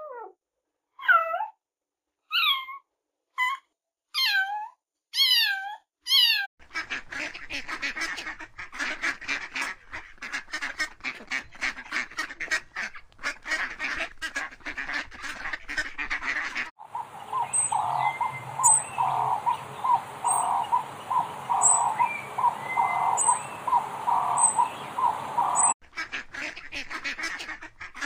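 A cat meows about six times, each call falling in pitch. After that, a flock of waterbirds calls densely over splashing water for about ten seconds. Then a single call repeats about once a second, and near the end many birds call together again.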